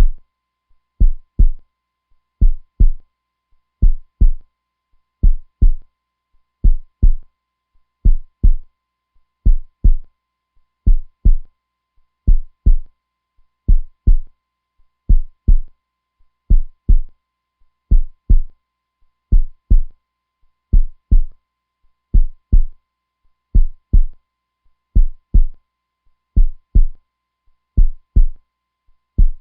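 Heartbeat sound, a slow and steady lub-dub: pairs of deep thumps, one pair about every second and a half.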